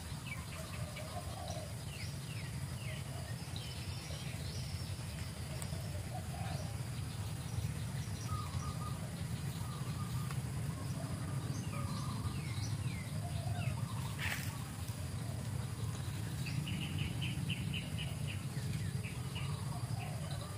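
Birds chirping in short scattered calls, with a rapid trilled run near the end, over a steady low rumble.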